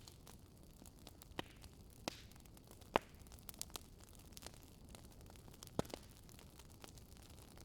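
Campfire crackling: scattered sharp pops and snaps of burning wood over a faint low hiss, the loudest pop about three seconds in.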